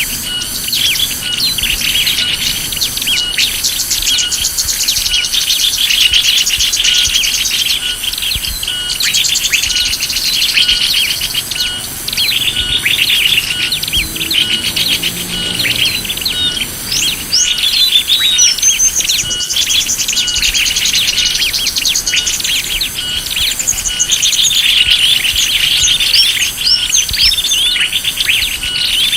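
Bird-lure call recording of many small birds chirping and twittering together in a dense, continuous chorus, with a short pulse repeating about once a second underneath.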